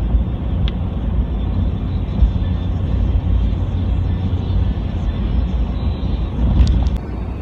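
Steady low rumble of a vehicle driving, heard as road and engine noise.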